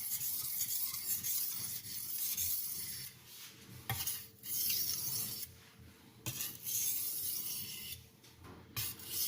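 Steel knife blade being stroked across a fine-grit (JIS 6000) aluminium oxide sharpening stone, a rasping scrape as the stone abrades the steel. The scraping is continuous for the first few seconds, then breaks into separate strokes about a second long with short pauses between them.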